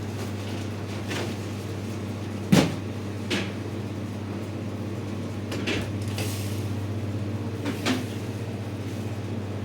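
About five short sharp knocks or clunks, the loudest about two and a half seconds in, over a steady low hum.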